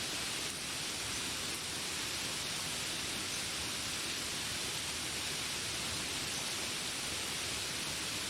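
Steady rain falling, an even hiss with no distinct drops or calls standing out.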